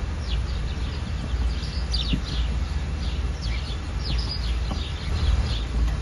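Small birds chirping repeatedly in short, falling notes over a steady low outdoor rumble.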